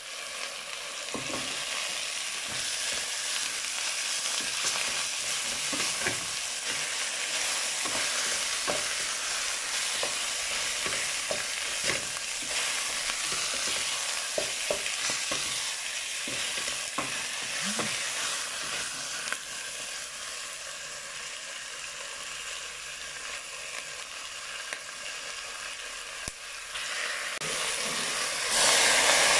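Chicken pieces and onions sizzling in hot oil in a stainless steel pot, with a wooden spatula scraping and knocking against the pot as they are stirred. Near the end, water poured into the hot pot sets off a sudden, louder rush of sizzling.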